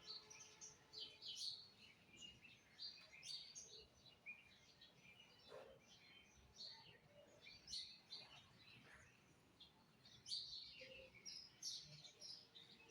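Small birds chirping faintly: many short, high chirps scattered irregularly, several a second at times.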